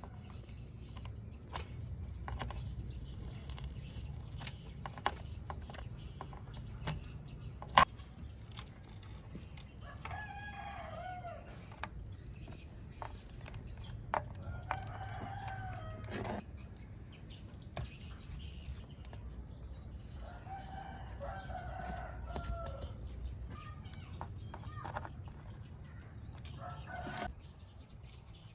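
A rooster crowing about three times, with a shorter call near the end, behind scattered sharp clicks and taps from hand tools at work.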